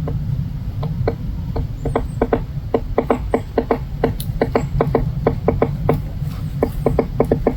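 A woodpecker pecking at wood: sharp, irregular taps, a few a second in short runs, rather than a fast drumming roll. A steady low rumble runs underneath.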